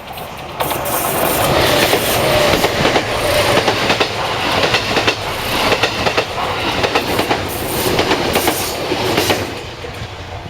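A train passing close by, its wheels clattering over the rail joints in a rapid clickety-clack. The sound rises sharply about half a second in and eases off near the end as the train goes by.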